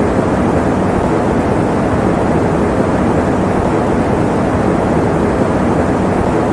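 Electric fan running: a steady, even rush of air noise, weighted toward the low and middle range, with no hum or rhythm.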